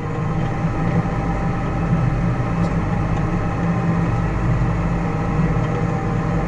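Farm tractor's diesel engine running steadily, a low even hum with faint steady higher tones over it.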